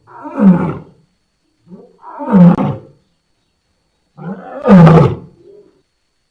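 Lion roaring: three separate deep roars, each about a second long and dropping in pitch, with silent gaps between them.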